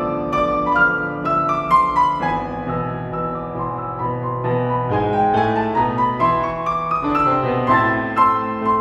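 Classical-style piano music: a melody of struck notes moving over held lower notes, with no speech.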